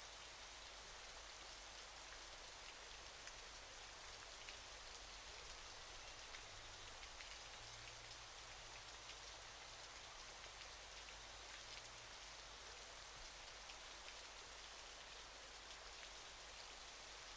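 Falling water, faint: a steady, even hiss of splashing with fine pattering drops throughout, as from a waterfall.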